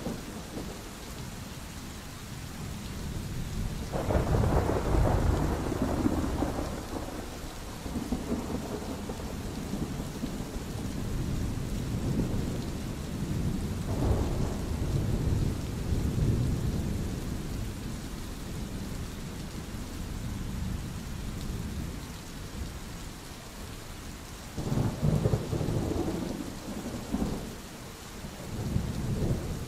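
Steady rain with peals of thunder: a loud peal about four seconds in that rolls on for several seconds, a shorter one around the middle, and two more near the end.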